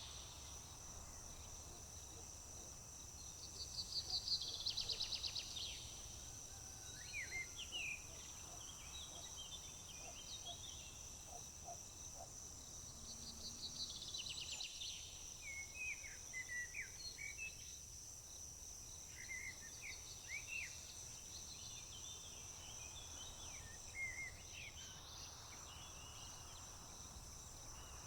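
Wild birds singing over a steady, high-pitched insect drone. A rapid trilled song comes twice, about 4 and 14 seconds in, and short chirps from other birds come in between and after, over a low background rumble.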